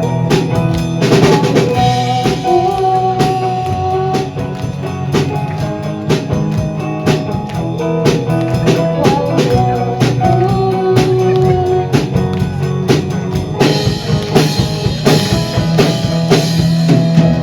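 Live rock band playing: drum kit driving a steady beat with snare and kick, over bass, electric guitar and keyboard. The cymbals grow brighter and busier about fourteen seconds in, building towards the song's end.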